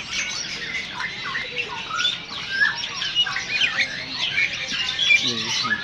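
Caged songbirds, white-eyes (pleci) among them, singing and chirping all at once: a dense run of overlapping quick high chirps and short whistled notes.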